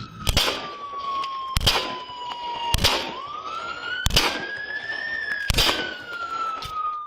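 Police siren wailing, slowly falling, rising around three seconds in, then falling again, with five sharp bangs spaced about a second and a half apart over it.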